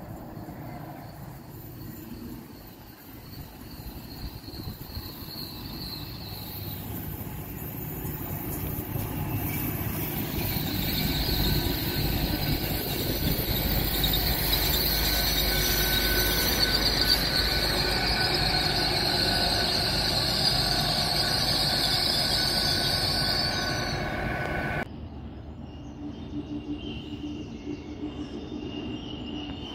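A GWR Intercity Express Train runs through the station, growing louder as it comes in, with a dense rumble and a high, steady wheel squeal. The sound cuts off suddenly about 25 seconds in, leaving quieter sound beside empty track.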